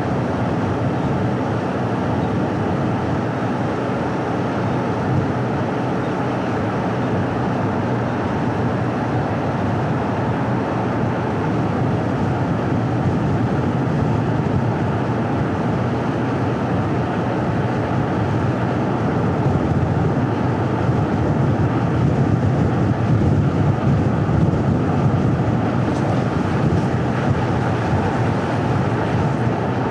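Steady road noise of a car driving on a paved road: tyres rolling on asphalt over a low engine hum, getting a little louder in the second half.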